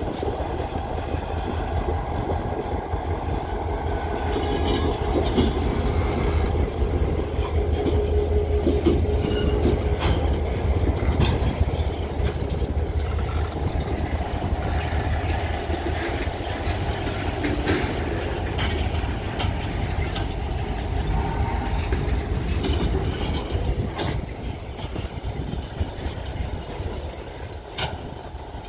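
EMD G22U diesel-electric locomotive and its train passing at close range: the locomotive's low diesel hum is loudest in the first half and fades as tank cars and a chemical weed-control car roll by. Steel wheels click over the rail joints throughout.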